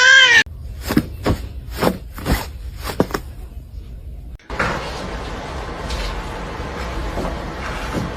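A cat's meow cuts off, followed by a run of sharp knocks and taps for about four seconds, then a steady hiss.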